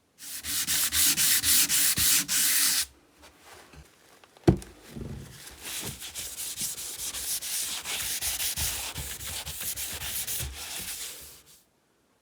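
Abrasive hand scrubbing of a small metal part, in rapid back-and-forth strokes at about four or five a second. A sharp knock comes about four and a half seconds in, followed by lighter, steadier scrubbing that stops near the end.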